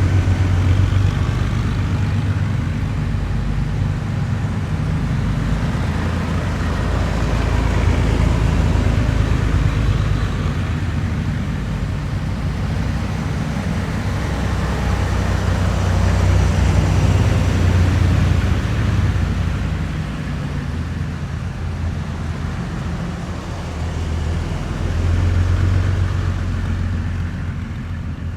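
Heavy military vehicles driving past one after another, a deep engine rumble with road noise that swells and fades about four times as each passes.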